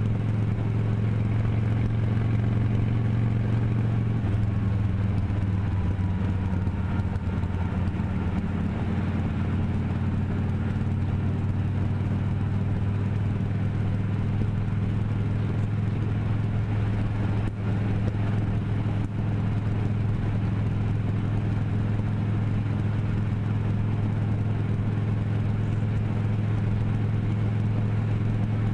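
Motorcycle engine running steadily while riding, with a slight drop in pitch about four seconds in.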